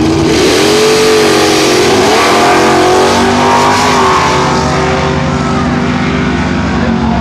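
Drag-racing car engine at hard throttle, loud, its pitch dipping and climbing about two and four seconds in before settling into a steady drone.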